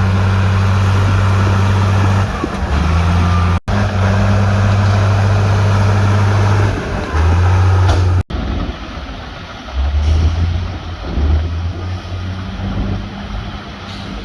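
Heavy diesel earthmoving machinery engine running with a steady low hum. It breaks off abruptly twice, about 3.5 and 8 seconds in. After the second break it is quieter, and the engine note comes and goes.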